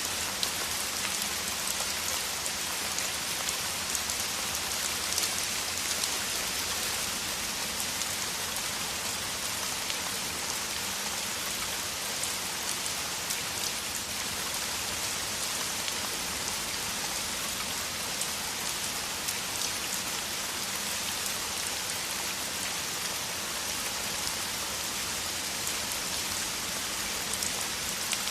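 Heavy rain falling steadily, a dense hiss of drops with fine ticks of individual drops striking a surface.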